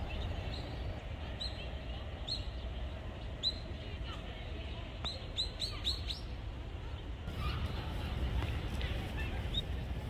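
Small birds calling: short, high chirps, scattered at first, then a quick run of them about five seconds in and one more near the end, over a steady low rumble.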